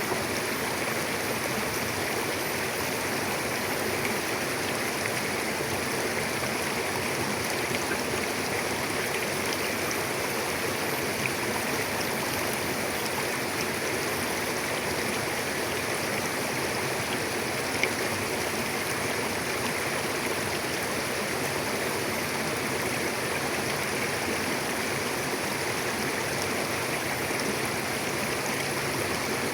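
Mountain river flowing: a steady rush of water over rocks, with a few faint splashes or clicks standing out briefly.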